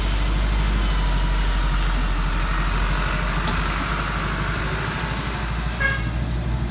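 Heavy diesel truck engine running steadily under load with a deep, even pulse. A brief horn toot comes near the end.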